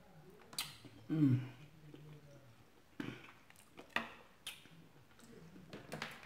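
Close-miked eating sounds: chewing with wet smacks and a series of sharp mouth clicks, and a short low voiced hum about a second in.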